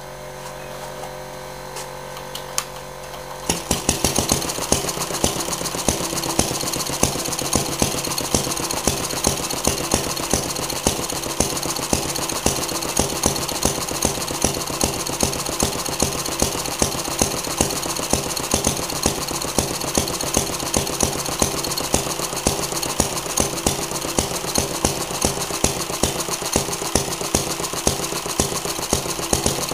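Stuart Turner 800 stationary gas engine starting up about three and a half seconds in, after a steady hum with a few clicks, then running on its first test run after a rebuild, with rapid regular firing beats and a sharp louder beat about twice a second.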